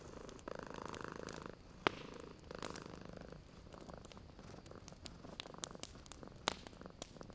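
Cat purring in waves a second or so long, over a wood fire crackling with scattered sharp pops, the loudest about two seconds in.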